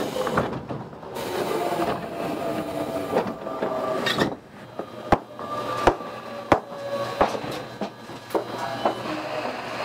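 Interior sound of a Tobu 20000 series commuter train car during a station stop: a steady hum with faint tones. Near the middle there is a run of four sharp clicks about two-thirds of a second apart.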